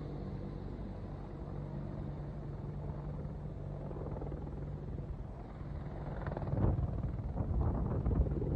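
Steady drone of a military aircraft's engines heard from inside the cabin, with a low held tone. About six seconds in it grows louder and rougher.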